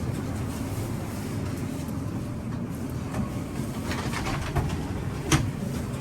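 Schindler 5500 traction elevator cab travelling, a steady low rumble, with a sharp click about five and a half seconds in.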